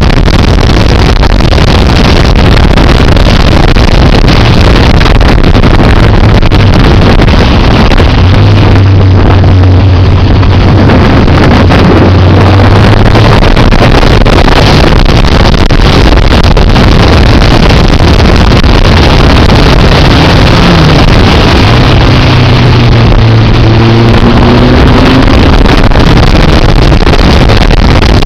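Motorcycle engine running at speed under heavy wind buffeting on the microphone, loud and close to distortion, with the engine note rising near the end.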